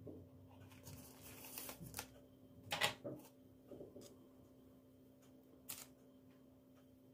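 A steady low electric hum, with light clicks and rustling of objects being handled over it; the loudest is a sharp clack about three seconds in, and another comes near six seconds.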